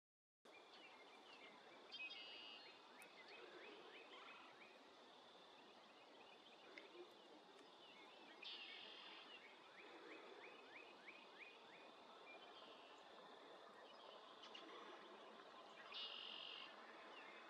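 Faint outdoor ambience with small birds calling in the distance. A short, buzzy call comes three times, about six seconds apart, between runs of quick descending chirps.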